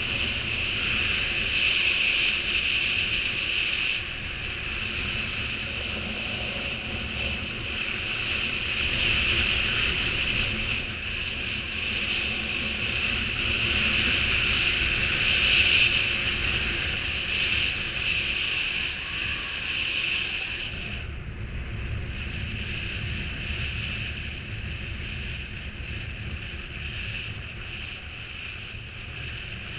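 Strong wind rushing over the microphone, a steady roar that swells and eases in gusts and softens somewhat after about twenty seconds.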